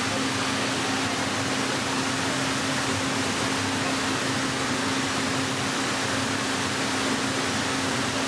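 Hydraulic plate bending roll's power unit running steadily: a constant hum over an even hiss, with no change in load.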